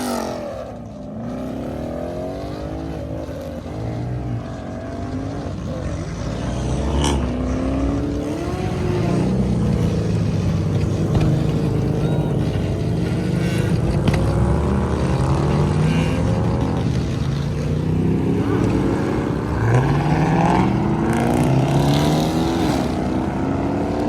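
Car engines under hard acceleration, the engine note repeatedly climbing in pitch and dropping back, with more than one engine heard at once.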